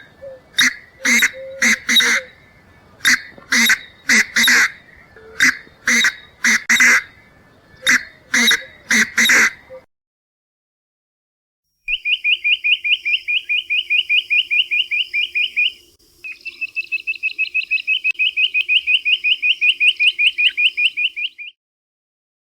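Two recorded bird calls. First come harsh, loud calls repeated in short pairs and groups for about ten seconds. After a short gap comes a high, rapid trill of short notes that breaks off once and then continues.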